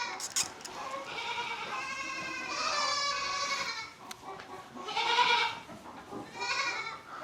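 Goats bleating: a long, drawn-out call followed by two shorter bleats later on.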